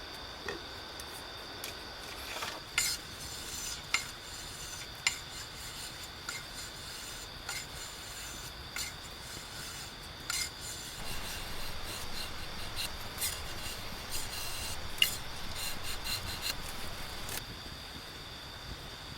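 Repeated scraping or rubbing strokes with sharp clicks about once a second, then a denser stretch of scraping that stops near the end.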